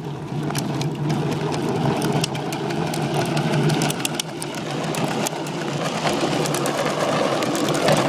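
Mini bike's small engine running steadily as the bike rides down a hill, with rattling clicks over it.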